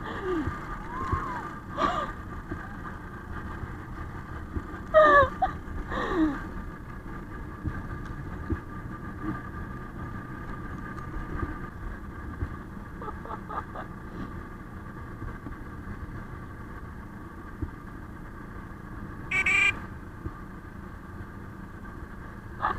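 Izh Planeta motorcycle's single-cylinder two-stroke engine running steadily, with a few short higher-pitched sounds on top about five, six and nineteen seconds in.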